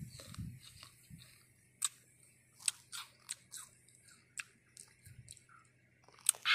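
A person chewing a firm, crisp green fruit: irregular sharp, crisp crunches every half second or so, with a louder crunch near the end.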